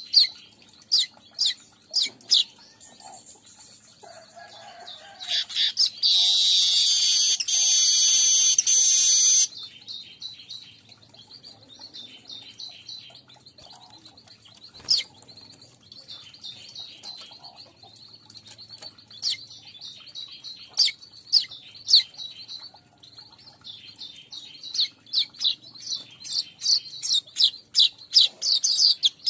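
Weaver (manyar) song on a lure recording: a series of sharp high chirps, then a loud harsh buzzing wheeze from about six to nine and a half seconds in, more scattered chirps, and a quickening run of chirps near the end.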